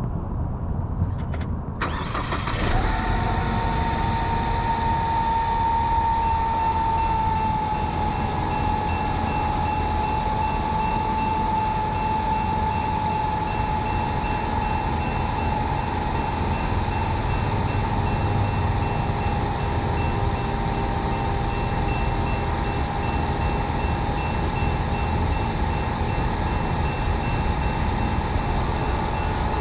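Loaded coal train rolling past close by: loud, steady rumble of the locomotives and coal cars that begins a couple of seconds in. A single high-pitched squeal is held over it throughout and dips slightly in pitch a few seconds after it starts.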